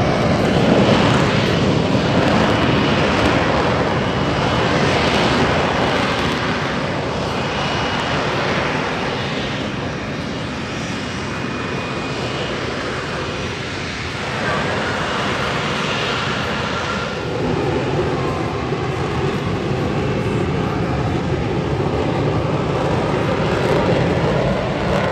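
F-35B fighter's jet engine and lift fan running in hover mode: a loud, steady jet roar with a faint high whine. It eases slightly about halfway through, then swells again.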